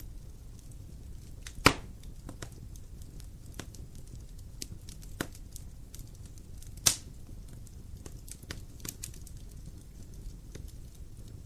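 Wood fire burning with a low steady rumble and scattered sharp crackles, with two loud pops about two seconds in and about seven seconds in.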